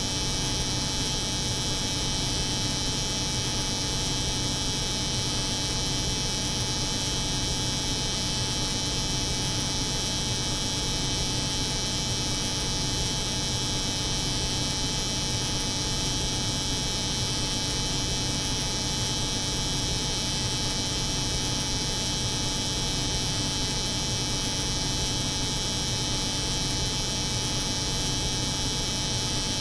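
Steady, unchanging hum of a cold room's refrigeration unit layered with the buzz of an electric hair clipper running continuously.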